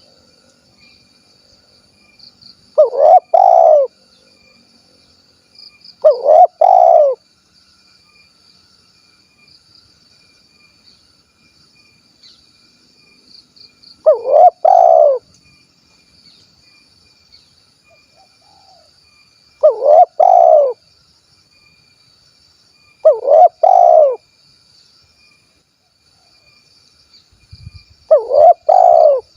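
Spotted dove (tekukur) singing its 'kuk 1' song type: six separate coo phrases of about a second each, spaced irregularly a few seconds apart.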